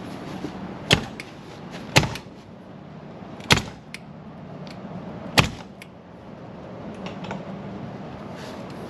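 Aluminium storage-bay doors on a motorhome being shut and latched: four sharp bangs a second or two apart, with lighter latch clicks between them, over a steady background hum.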